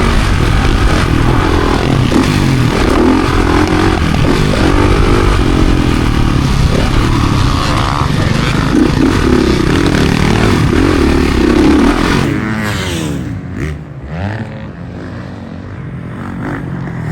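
Motocross bike engine running hard, its pitch wavering with the throttle. About twelve seconds in it eases off, the revs dip and rise a few times, and it runs quieter after that.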